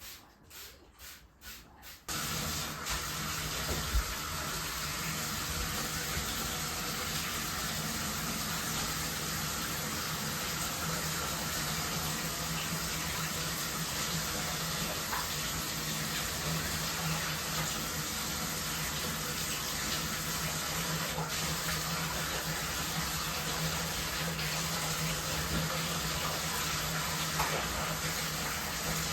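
A few soft rhythmic strokes, then about two seconds in a bathtub faucet is turned on and water gushes steadily into the tub.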